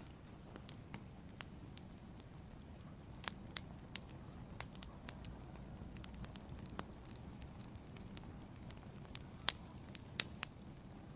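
Wood fire burning in a fireplace: a low steady rumble with irregular crackles and a few sharper pops from the burning logs.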